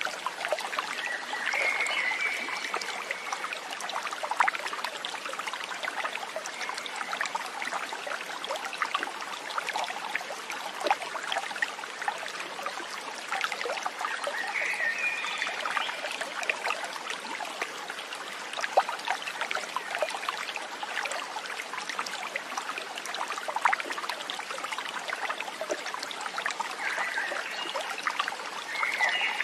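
A small stream trickling and burbling steadily. A few brief high-pitched calls come over it now and then.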